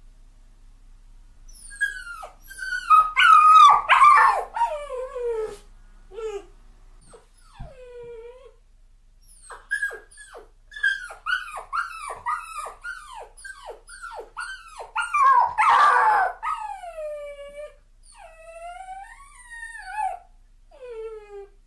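A dog crying: high-pitched whines that slide down in pitch, coming in flurries. From about ten seconds in there is a run of short whimpers, about two a second, then a louder, rougher yelping outburst, then a few longer falling whines near the end.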